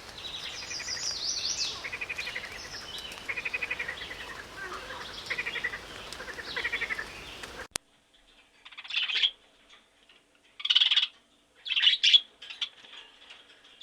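Small birds chirping and twittering in quick repeated notes. After a sudden cut, short high squeaky calls come in separate bursts about a second apart.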